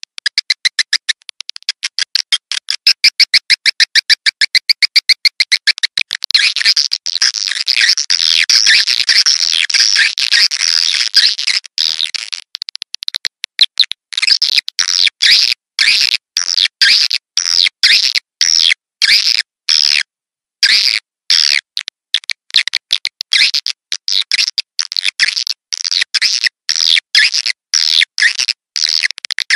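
Swiftlet lure-call recording (suara tarik walet), a track used to draw swiftlets to a nesting house. It opens with a rapid, even train of chirping pulses, then turns for about six seconds into a dense, continuous twittering chatter, then breaks into short chirp phrases with brief abrupt silences between them.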